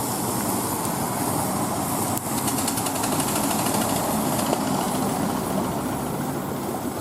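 A train running along the track: a steady rumble, with a fast, even rattle that joins about two seconds in and fades about three seconds later.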